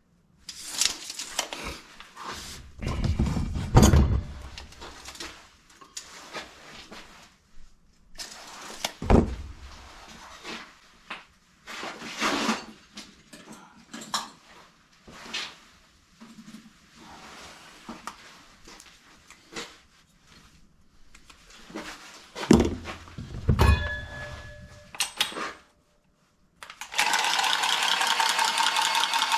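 Metal parts and tools being handled: irregular clanks, knocks and rattles, the loudest a few seconds in, around nine seconds, and a couple more past twenty seconds. Near the end a steady, loud mechanical noise starts abruptly.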